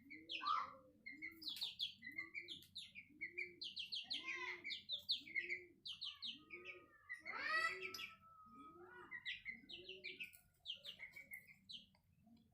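Aseel chicks peeping in short, high chirps, with a hen's low clucking repeating evenly about every three quarters of a second underneath, and one louder, longer call about seven to eight seconds in.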